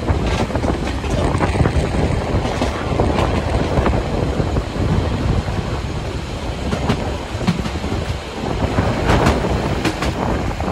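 Train on the Harz narrow-gauge railway rolling along, its wheels clattering over the rail joints with scattered sharp clicks.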